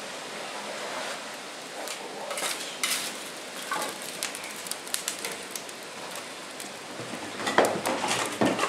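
Maple sap boiling hard in the pans of a wood-fired evaporator: a steady, rain-like hiss with scattered crackles and clicks, and a cluster of sharper knocks near the end.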